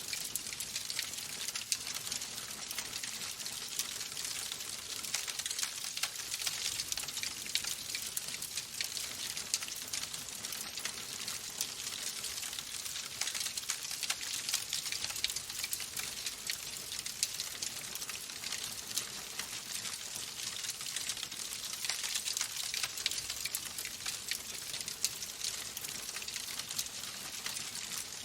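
Wood fire burning in a fireplace, crackling steadily with a dense run of small pops and snaps over a soft hiss.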